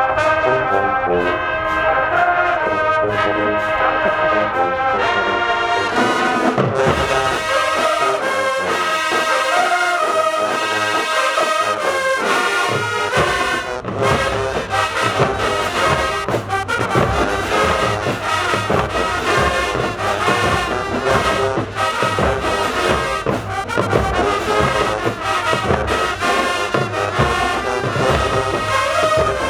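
Marching band brass section, trombones and trumpets, playing a loud tune over a drumline's steady beat. The deep bass and low drums drop out about seven seconds in and come back in around thirteen seconds.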